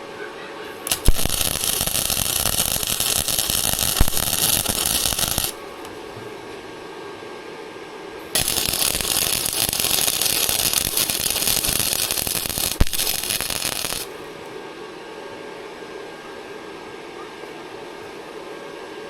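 Electric arc welder crackling as it lays weld beads, in two bursts about four and a half and five and a half seconds long, each starting and cutting off suddenly.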